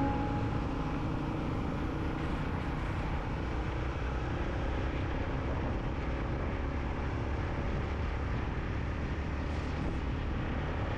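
Steady wind rush and running noise of a Yamaha MT-15 motorcycle being ridden along a road.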